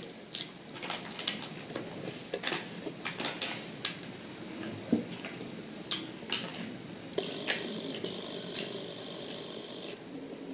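Close-miked chewing of fried chicken wings and fries: irregular crunchy clicks and wet mouth and lip smacks.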